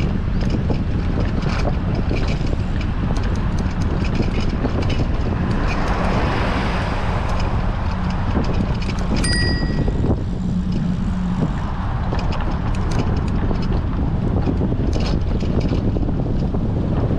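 Strong wind buffeting the microphone of a camera on a moving bicycle, with scattered light clicks and a single bicycle bell ding about halfway through.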